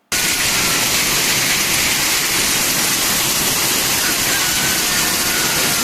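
Heavy hail and rain pelting down in a hailstorm: a loud, steady, dense rush of noise that starts abruptly.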